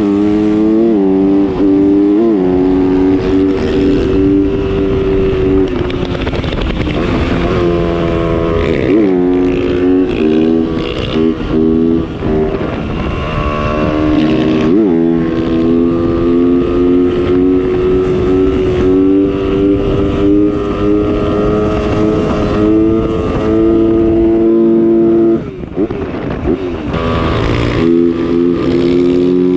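Motocross motorcycle engine under way, revving up and dropping back several times as it shifts through the gears, then holding a steady pitch; the throttle briefly closes near the end before the engine pulls again.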